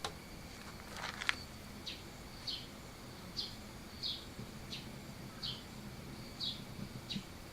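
A bird calling repeatedly with short chirps, roughly one and a half a second, over a faint steady high tone. A sharp knock sounds about a second in.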